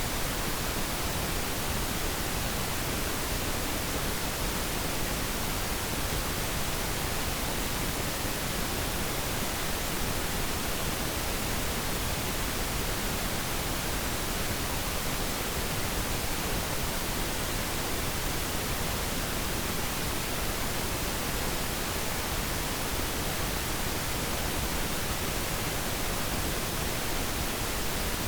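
Steady synthetic pink noise: an even, unchanging hiss spread across the whole range, with less treble than white noise.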